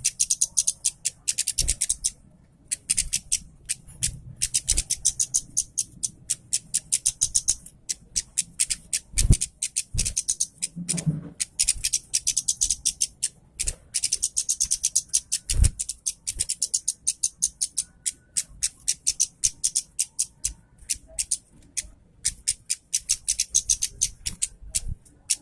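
Red-headed bunting singing continuously: rapid runs of sharp, high notes in long phrases broken by brief pauses. A few low thumps come in between, about nine and sixteen seconds in.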